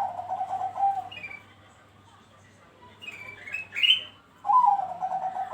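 Zebra dove (perkutut) cooing: two rapid, trilled coo phrases that drop slightly in pitch, one at the start and one about four and a half seconds in. Between them come a few short, higher-pitched notes.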